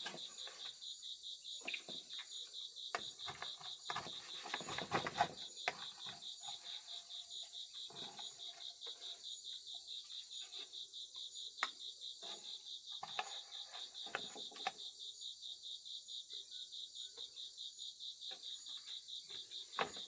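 Crickets chirping in a steady, evenly pulsing high trill, with occasional soft knocks and rustles, a cluster of them around four to six seconds in.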